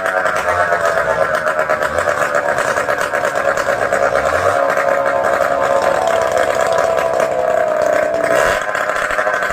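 Motorcycle engine running steadily at an even speed, with a fast, even pulse.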